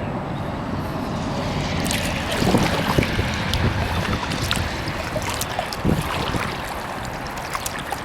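Kayak paddling: paddle strokes splashing and dripping in the water, with wind buffeting the microphone. The splashing gets louder about two seconds in.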